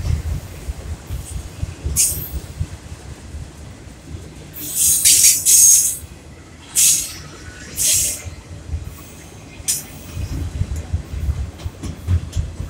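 Freight train of autorack cars rolling past, the wheels rumbling low and steadily on the rails. Several short, high-pitched wheel squeals break in; the loudest and longest comes about five seconds in and lasts around a second and a half.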